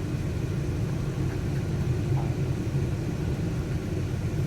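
Steady low rumble of a running engine or machine, even in level throughout.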